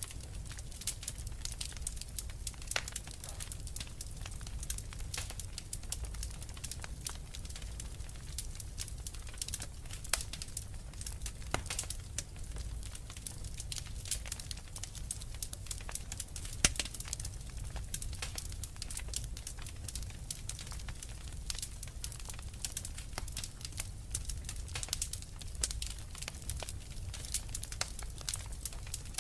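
Wood fire crackling in a fireplace: frequent irregular sharp pops and snaps, a few of them louder, over a low steady rumble.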